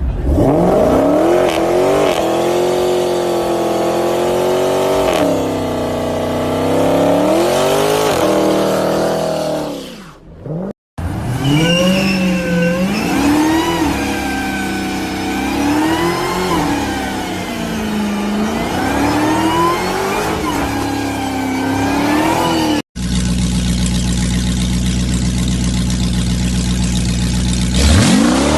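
Dodge Challenger V8 exhaust in a run of clips, the engine revving with its pitch repeatedly rising and falling. After two abrupt cuts, the engine idles steadily and then revs up sharply near the end.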